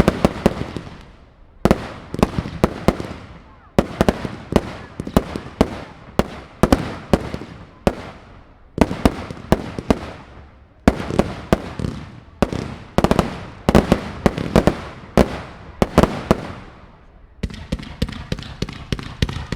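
Fireworks display: clusters of sharp bangs from bursting aerial shells, a new volley about every two seconds, each one trailing off before the next.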